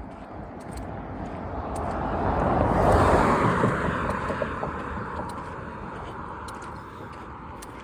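A car passing by: tyre and engine noise swells to its loudest about three seconds in, then fades away.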